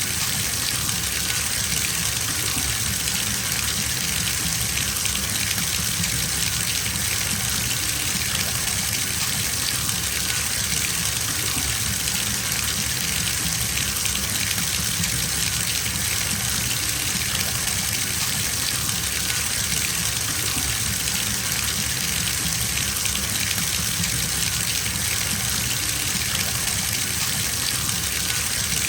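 Water gushing steadily from a bathtub tap into the tub as it fills, an even, unbroken rushing.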